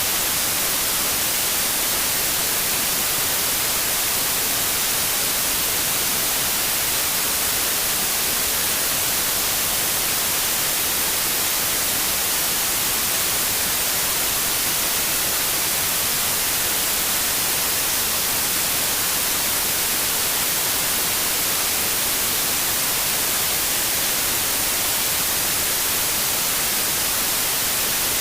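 Steady synthetic white noise, an even hiss with most energy in the highs and no change throughout.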